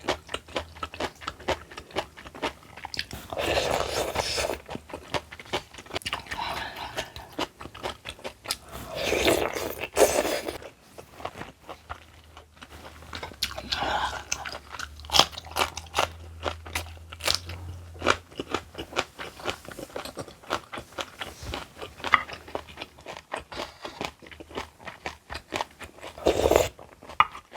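A person crunching and chewing crisp kimchi: many quick crunches with a few louder bites.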